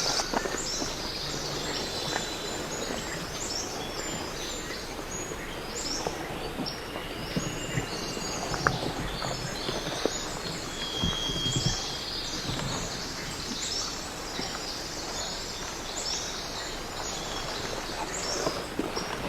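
Small birds chirping: many short, high chirps, one after another, over a steady outdoor background hiss, with a couple of brief high whistled notes in the middle.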